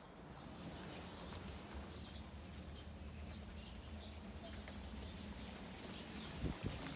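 Faint chirping of small birds, many short high calls at irregular intervals, over a low steady rumble, with a couple of dull thumps near the end.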